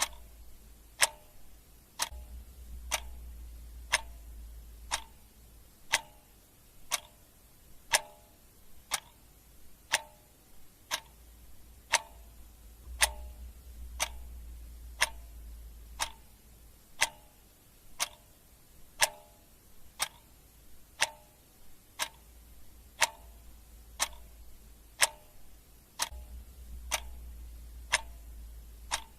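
Clock ticking steadily, one sharp tick each second, each with a brief ring.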